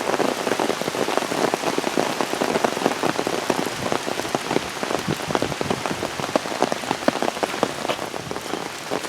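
Steady rain shower, with dense close raindrops hitting a handheld umbrella overhead as a continuous run of sharp ticks over the hiss of the rain.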